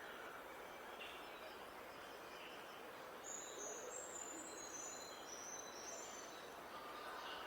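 Wild songbirds singing over a steady outdoor hiss. About three seconds in, one bird gives a quick run of high, thin notes that step down in pitch for about three seconds, with scattered shorter chirps around it.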